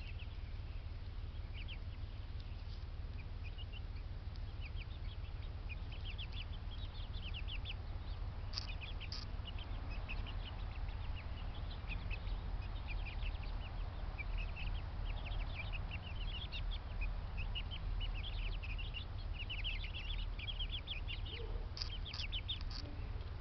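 Many small birds chirping and peeping in quick, overlapping calls, busier from about eight seconds in, over a steady low hum.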